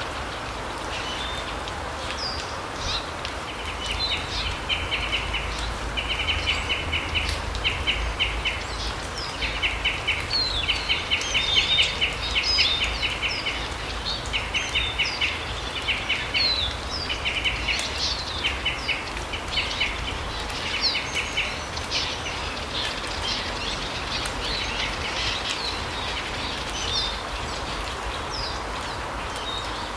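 Small forest birds calling: repeated short, rapid trilled call series mixed with quick high chirps, busiest in the middle and thinning toward the end, over a steady low background rumble.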